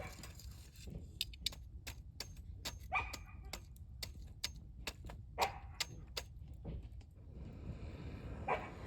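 Wood campfire crackling with irregular sharp pops, and a dog giving a few short whimpers or yips: about three seconds in, midway and near the end.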